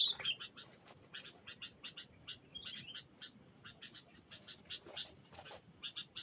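Small birds chirping: a run of short, sharp call notes, about three or four a second, with a brief warbled phrase near the middle.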